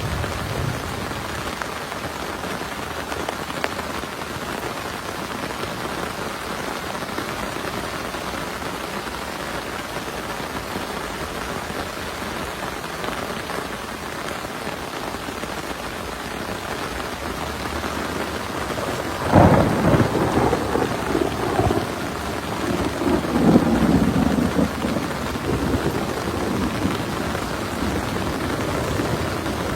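Heavy rain falling steadily in a thunderstorm. About two-thirds through, thunder breaks out suddenly and rumbles on for several seconds, swelling again shortly after.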